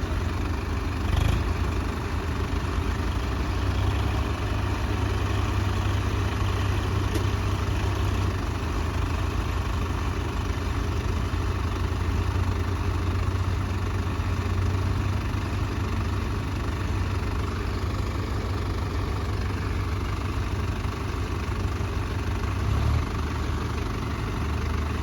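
Sonalika tractors' diesel engines running steadily, a heavy low rumble, with a short knock about a second in.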